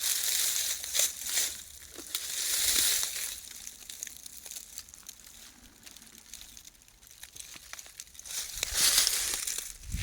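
Rustling and crackling of dry vegetation, with scattered sharp clicks, in three louder spells: near the start, about two to three seconds in, and about nine seconds in.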